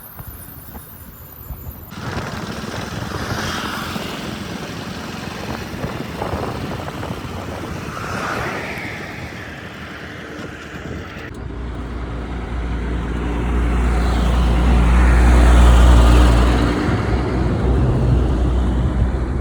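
Heavy diesel machinery running, in several clips cut together. From about two-thirds of the way in, an engine grows steadily louder to a peak, then eases off.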